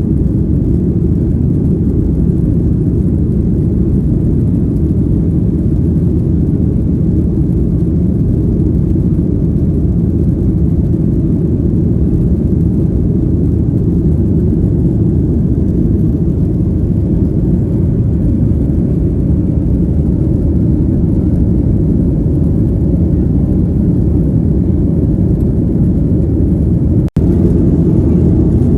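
Jet airliner cabin noise: a steady, loud low rumble of engines and airflow heard from inside the passenger cabin, with a momentary break in the sound about two seconds before the end.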